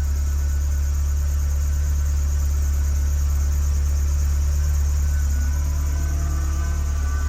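1978 Ferrari 308 GTS's carbureted 2.9-litre quad-cam V8, breathing through an ANSA four-exit exhaust, idling steadily with a deep, low sound shortly after a cold start, choke pulled partly out.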